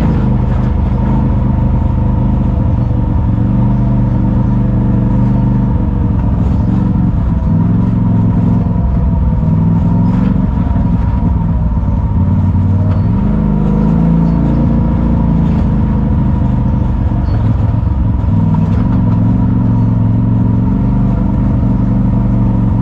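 Side-by-side UTV engine and drivetrain running under load on an off-road trail, heard from on board. The engine pitch rises and falls as the throttle changes.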